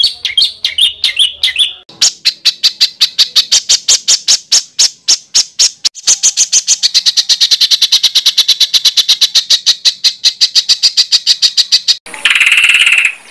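Songbird song recordings spliced one after another, as in a bird-training song track. Quick chirps give way to rapid repeated sharp notes, then a fast high trill, then a short harsh rasping call near the end, with abrupt cuts between them.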